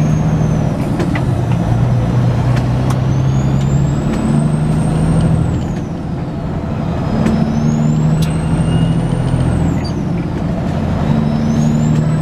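Semi truck's diesel engine running in the cab while driving, its pitch stepping up and down. A high whine rises and falls about every four seconds, the sound of the windshield wipers sweeping, which are a little noisy.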